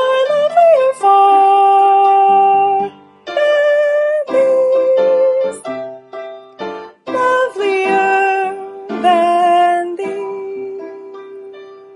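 A school chorus singing a slow song in held phrases with piano accompaniment. The last note is held and fades away near the end as the song closes.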